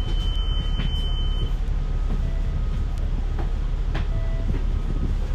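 Inside a moving bus: a steady low engine and road rumble, with scattered clicks and rattles. A thin steady high tone stops about a second and a half in.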